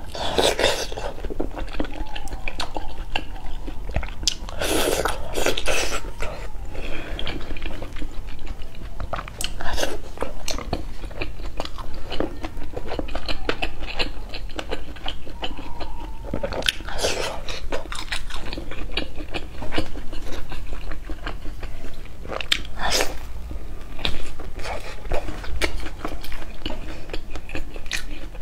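Close-miked mukbang eating: steady chewing and biting with some crunching, with a handful of louder bites every few seconds.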